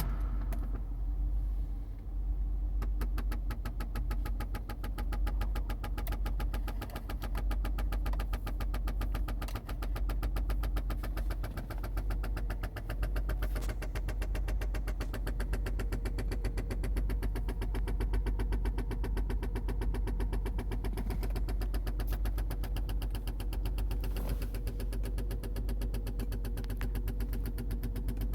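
1986 Porsche 928S V8 engine idling steadily while still cold, shortly after a cold start.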